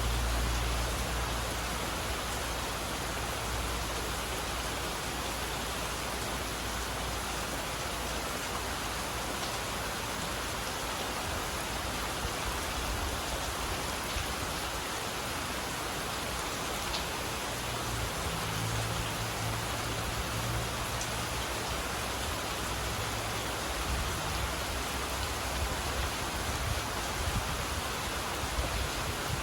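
Steady rain falling, an even hiss of many drops. A low rumble of distant thunder sits under it at the start and again about two-thirds of the way through.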